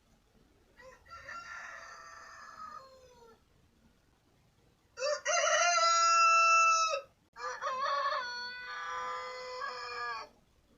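Rooster crowing three times, each crow a drawn-out pitched call of two to three seconds; the second crow, about halfway through, is the loudest and the first the faintest.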